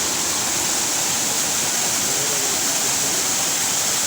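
Shiraito Falls, a wide curtain of many thin streams falling over a rock face, giving a steady, even rush of water.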